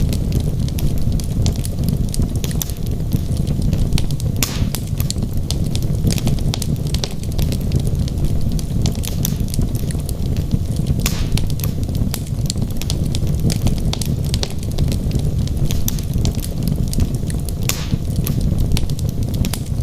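Wood fire burning in a fireplace: a steady low rumble of flames with frequent small crackles, and a few louder pops spread through.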